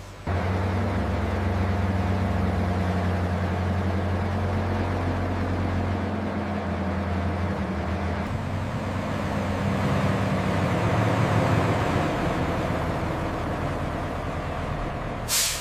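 Heavy vehicle engine running steadily with a low hum, cutting in suddenly just after the start. A brief sharp noise sounds near the end.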